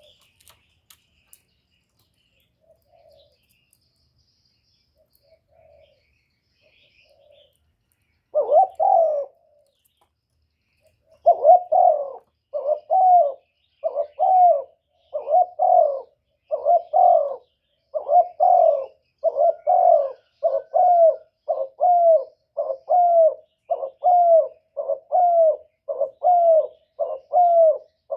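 Spotted dove giving its rapid 'cu gù' coo, the short coo repeated a little more than once a second, a call used to rouse wild doves. A few faint soft notes come first, and the loud run begins about eight seconds in.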